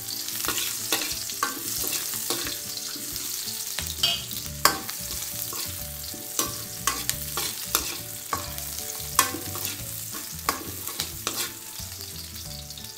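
Sliced red onion and garlic sizzling in hot oil in a wok, with a metal ladle scraping and clinking against the pan as they are stirred.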